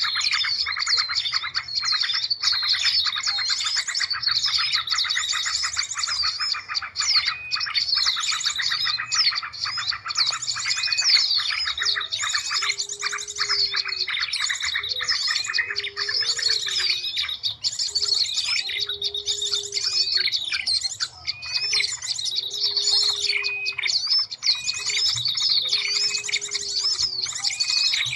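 Bird-lure recording of many small birds chirping and trilling at once, dense and continuous. From about the middle a short, low hooting note repeats roughly every two seconds under the chirping.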